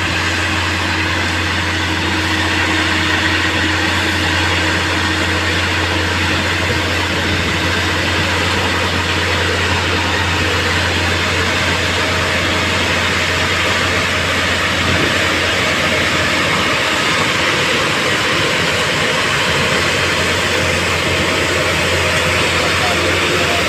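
Engine of a railway track maintenance machine running steadily, with a low hum that fades about fifteen seconds in.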